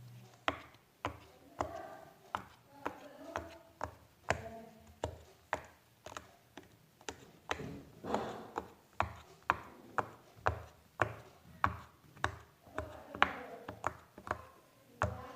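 Sharp clicks or taps repeating at an even pace of about two a second.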